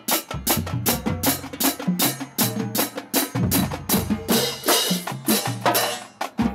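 Marching band drumline playing a fast cadence: rapid snare strokes over tuned bass drums stepping through different pitches, with a brighter wash of sound from about four to six seconds in.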